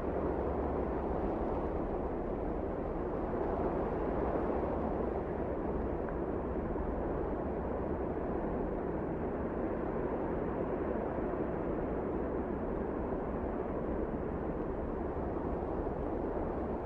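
Wind blowing steadily, a low rushing noise with a deep rumble underneath.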